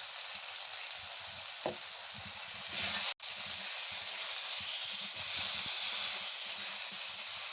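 Chicken liver and potatoes frying in spiced masala in a kadai, with a steady sizzling hiss. It breaks off for an instant about three seconds in, then carries on a little louder.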